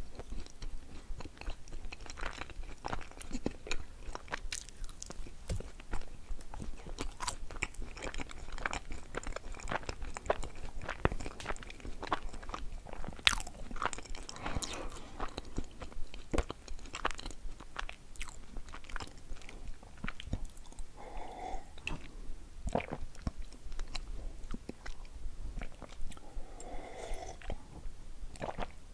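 Close-miked chewing of halva, with many small crunches and wet mouth clicks throughout.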